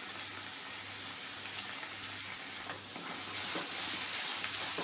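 Masala of fried-onion paste and green chilies sizzling in hot oil in a wok, stirred with a spatula. The sizzle grows louder about three seconds in as the stirring starts.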